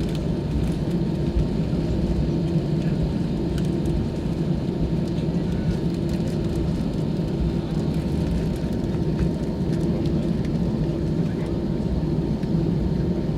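Airbus A320 airliner's jet engines and rushing air, a steady low rumble with a constant hum that neither rises nor falls.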